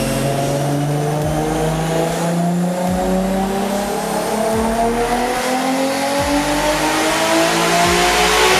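Single-turbo Nissan RB26DETT inline-six (Precision 6266 turbo) in a wide-open-throttle dyno pull, its revs climbing smoothly and steadily for about eight seconds. Right at the end the throttle is lifted and the engine note drops away.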